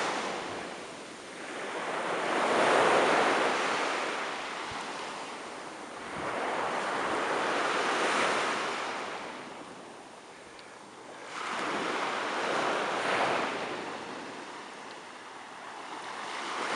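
Ocean surf breaking and washing up the beach, swelling and fading three times, several seconds apart.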